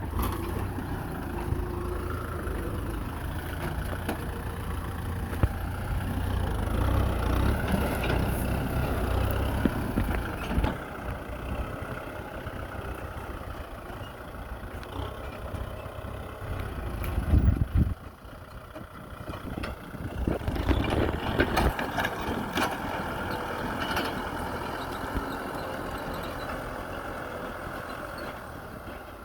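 Kubota M6040SU tractor's diesel engine running under working load, with its level rising and falling; it surges louder about two-thirds of the way through, then dips briefly before settling back to a steady run.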